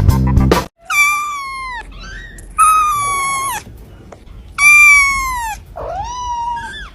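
Cat meowing loudly over and over: four drawn-out calls of about a second each, every one sliding down in pitch. Music cuts off just before the first call.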